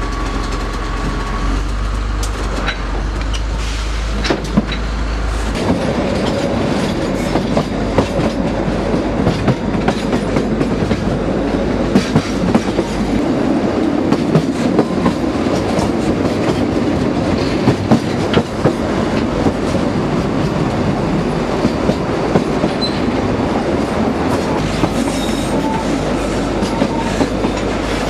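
A narrow-gauge (760 mm) train running along the track, its wheels clicking steadily over the rail joints. A low drone sounds for the first five seconds or so, and now and then there is a short, faint wheel squeal.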